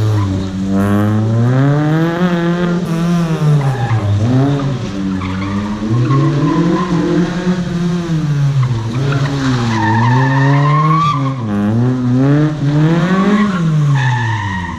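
Proton Wira 1.6's 4G92P four-cylinder engine revving hard and backing off again and again, its pitch climbing and falling every two or three seconds as the car is driven flat out through a tight cone course.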